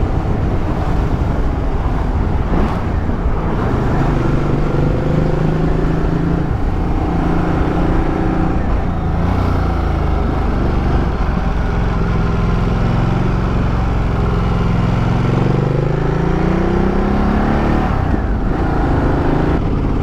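Motorcycle engine running steadily under way, with a low rush of wind and road noise; the engine note rises in pitch near the end as the bike accelerates.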